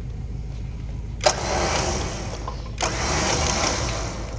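Electric winch running in two bursts of about a second and a half, each starting with a sharp clunk, over a steady low engine rumble.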